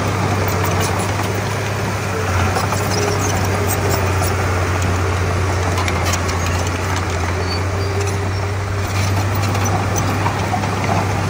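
Komatsu D31P bulldozer's diesel engine running steadily with a constant low hum, with scattered light clicks over it.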